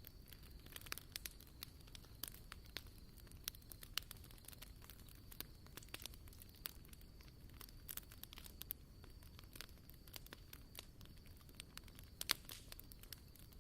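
Campfire wood crackling, with irregular sharp pops and snaps, over a faint steady high-pitched tone.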